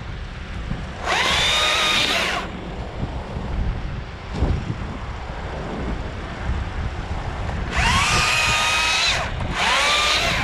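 Stihl MSA 161 T battery top-handle chainsaw running in three short bursts, each spinning up quickly to a steady whine and then stopping. Wind rumbles on the microphone in between.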